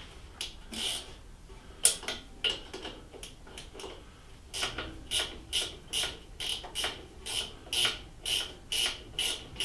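Socket ratchet wrench clicking as it backs out a loosened bolt, a few scattered strokes and then about two regular strokes a second from about halfway through.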